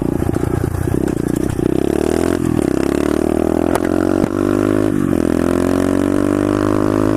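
125cc SSR pit bike's single-cylinder engine pulling under way, its pitch climbing, dropping at gear changes about two and a half and five seconds in, then rising slowly again.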